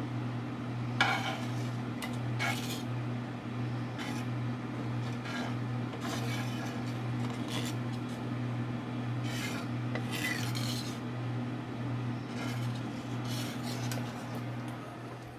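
A utensil scraping around the bottom of a pan as a thick cheese sauce is stirred, in irregular strokes every second or two, over a steady low hum; both stop near the end.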